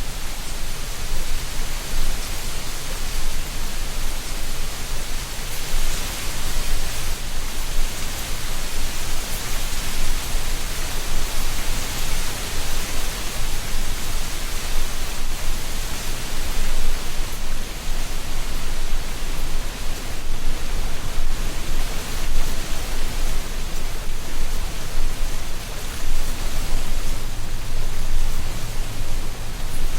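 Autumn wind blowing through treetops, dry leaves rustling in a steady hiss that swells and eases.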